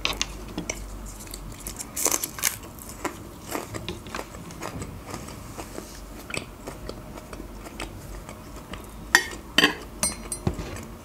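A person chewing food close to the microphone, with irregular wet clicks and a few louder crunchy bites, the loudest about two seconds in and near the end.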